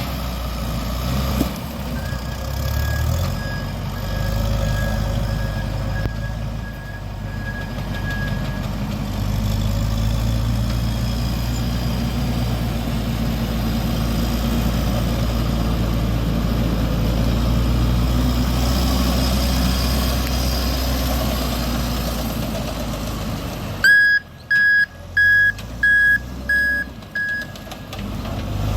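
Tractor backhoe engine running steadily, with a faint reversing alarm beeping for several seconds near the start. Near the end a loud reversing beeper sounds about six times, with the engine much quieter between the beeps.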